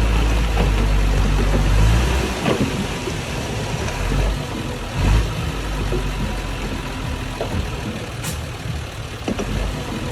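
Heavy earthmoving machine's diesel engine running, with a deep steady drone for about the first two seconds that then drops away, and scattered clanks and knocks throughout.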